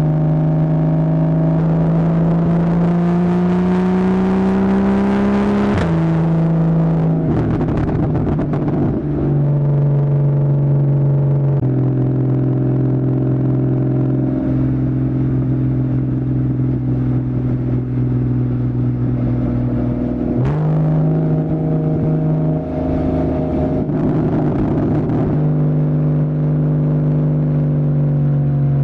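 2015 Porsche Boxster's 2.7-litre flat-six through a Fabspeed Maxflo aftermarket exhaust under hard driving: revs climb for the first six seconds, then drop sharply at a PDK upshift. It runs at steady revs for a while, then the revs jump sharply about twenty seconds in, a downshift, before settling again and falling away near the end.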